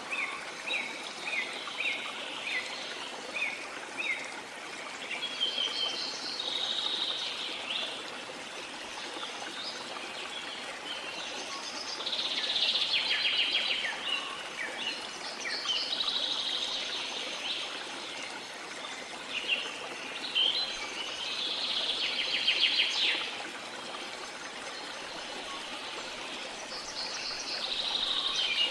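Small songbirds singing over a steady wash of water: a run of short chirps about twice a second at first, then trilled phrases every few seconds.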